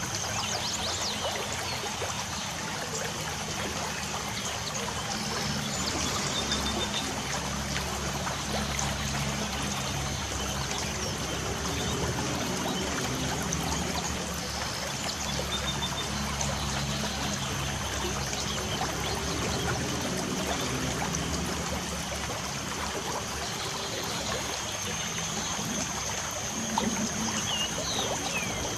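Light rain falling steadily, with a few faint bird chirps.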